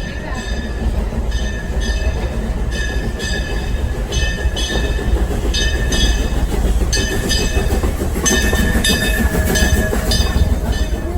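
Frisco Silver Dollar Line steam train running, a low rumble with a repeated pitched ringing about twice a second over it, like the locomotive's bell.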